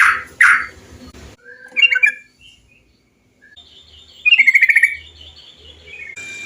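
Yellow-vented bulbul (trucukan) calls spliced from several recordings. Two loud calls open it, a short chatter comes about two seconds in, and a rapid trill follows about four and a half seconds in.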